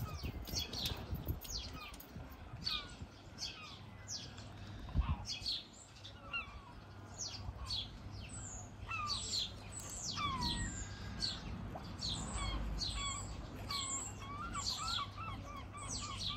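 Small birds chirping and singing outdoors: many short, high, falling chirps throughout, with quicker warbling phrases joining in during the second half. A low rumble of wind on the microphone comes and goes, and there is a single dull knock about five seconds in.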